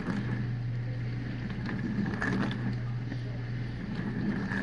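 Whirlpool dishwasher running mid-cycle: the wash pump motor hums steadily while water sprays and sloshes inside the tub, with scattered splashes against the dishes and racks.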